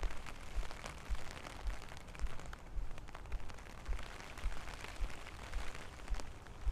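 Steady rain falling and pattering, with a low thud about twice a second from footsteps as someone walks in it.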